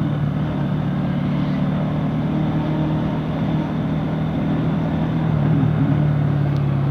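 Bajaj Pulsar NS200 motorcycle's single-cylinder engine running at steady revs, with a steady rush of noise behind it.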